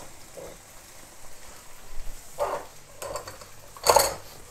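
Shrimp in tomato sauce sizzling faintly in a wok on a gas hob. There are a couple of small kitchen sounds in the middle, and a short, sharp clatter near the end.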